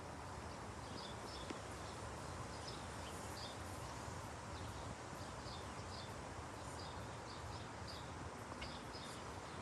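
Steady wind noise, with many short high bird chirps scattered through it.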